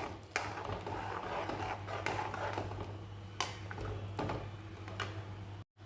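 A few light knocks and clicks of utensils on a cooking pot over a steady low hum and faint hiss.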